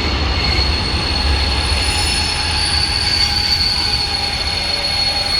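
Regional train wheels squealing in a steady high tone over the deep rumble of the running train.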